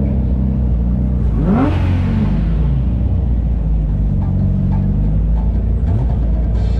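Car engine running at low speed with a steady low drone; about a second and a half in it revs up briefly and falls back, with a smaller rise near the end.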